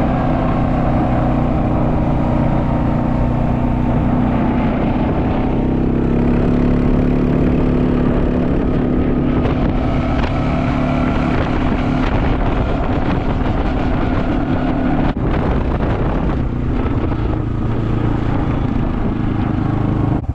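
Four-wheeler (ATV) engine running steadily while driving, its pitch drifting slightly up and down.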